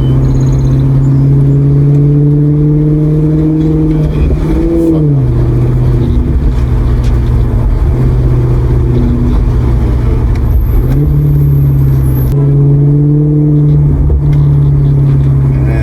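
Maserati GranTurismo V8 engine pulling while driving. Its note climbs slowly, drops sharply about five seconds in as it shifts gear, then holds steady, with another rise and shift near the end.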